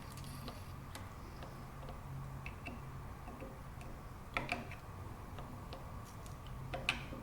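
Light clicks and small taps of metal parts and hand tools being handled, with a few louder taps about four and a half and seven seconds in, over a steady low hum.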